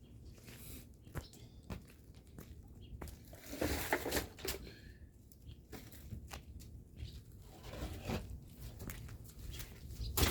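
Faint, irregular crackling and popping from a wood fire burning in a traditional Korean agungi furnace under a cast-iron cauldron of boiling soybeans. The crackles grow busier and louder about three to four and a half seconds in.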